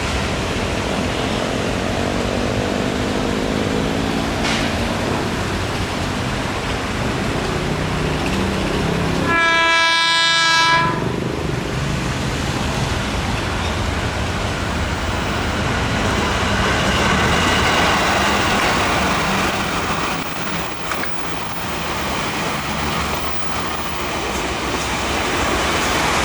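A long-distance train passing with a steady rumble. About nine seconds in, its horn sounds one blast of about a second and a half, several notes together.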